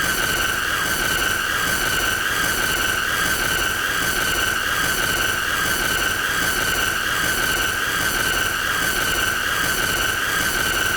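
A steady, high-pitched squealing tone with a slight waver and evenly spaced overtones over a layer of hiss, held without a break: the looped 'most annoying sound'.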